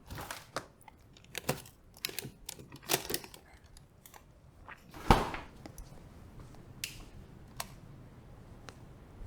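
Irregular sharp clicks and short rustles, the loudest about five seconds in, then a few faint single ticks.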